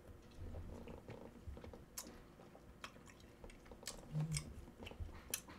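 Faint close-up chewing of chewy spicy rice cakes (tteokbokki) with melted cheese: soft wet mouth clicks and smacks scattered through, with a brief low hum about four seconds in.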